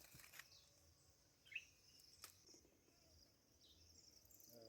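Near silence: faint rural outdoor ambience, with a steady high insect hum and a brief bird chirp about a second and a half in.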